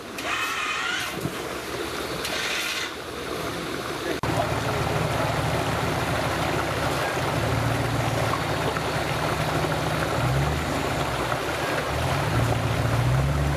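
Off-road 4x4's engine running under load over a steady rushing noise, the revs rising and falling twice in the second half. Voices are faint over the first few seconds.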